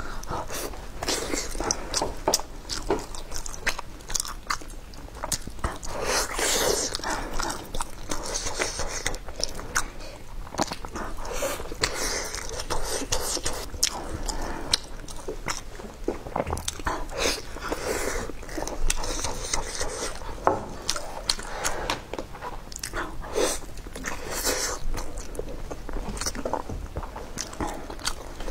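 A person biting into and chewing fried braised meatballs with a crisp coating: wet mouth sounds with many small sharp crackles, coming in short runs again and again.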